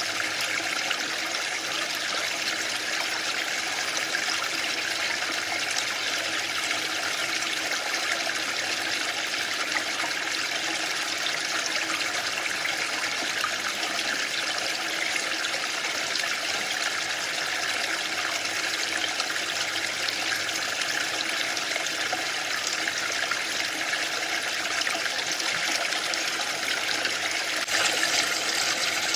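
Waterfall: a steady, even rush of falling water, a little louder briefly near the end.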